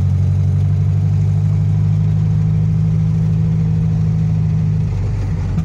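Air-cooled flat-four engine of a 1979 Volkswagen Fusca (Beetle), heard from inside the cabin while driving, running at steady revs with a low hum. Near the end the engine note drops.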